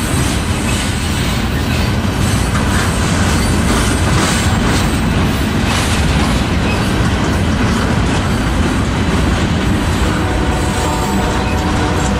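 Loaded freight flatcars of a military train rolling steadily past at close range: a continuous rumble with rapid clatter of wheels over rail joints and the crossing.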